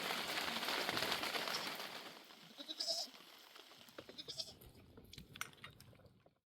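A steady hiss fades out over the first two seconds. About three seconds in comes a short bleat, then a few light clicks, and the sound cuts off abruptly near the end.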